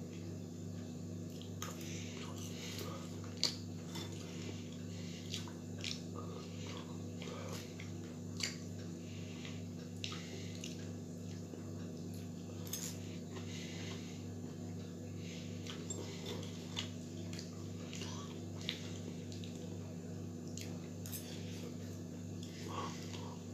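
A man chewing and eating french fries with a fork, with scattered short clicks as the fork touches the bowl, over a steady low electrical hum.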